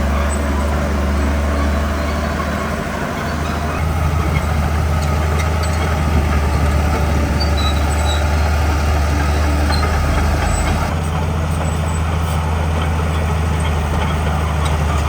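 Heavy diesel engine of earthmoving machinery running steadily under load, dipping briefly about three seconds in and picking up again a second later.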